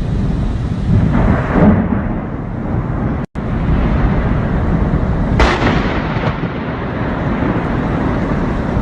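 Wind buffeting the microphone during rain, a loud, continuous low rumble. The sound cuts out for an instant about three seconds in.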